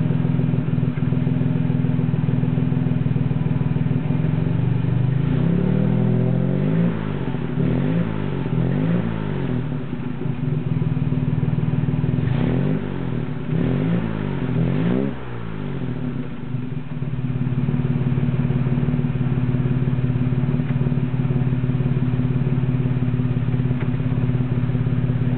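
Jaguar XK150's straight-six engine heard at its exhaust, idling steadily, then blipped through a series of quick revs that rise and fall before settling back to a steady idle. The run is made to show the car's muffler noise.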